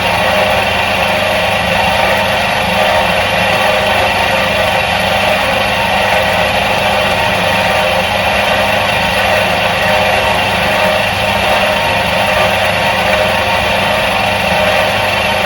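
Electric motor of a 1977 Soviet washing machine running steadily: a constant hum with several steady tones that does not change.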